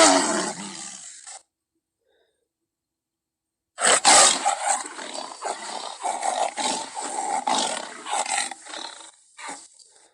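Tiger roaring: one loud roar that fades out, then after about two seconds of silence a longer run of roars coming in quick repeated pulses, loudest at first and trailing off near the end.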